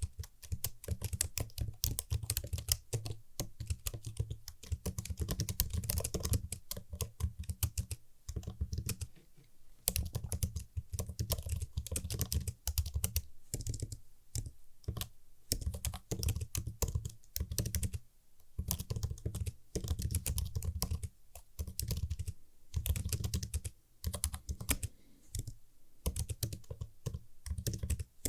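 Computer keyboard being typed on in quick, continuous runs of crisp key clicks, with short pauses between bursts.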